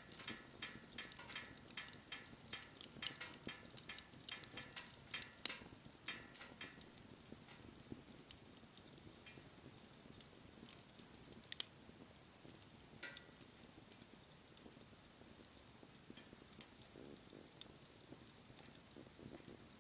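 Wood fire crackling, with many sharp pops close together for the first several seconds, then thinning to a few scattered single pops over a soft hiss.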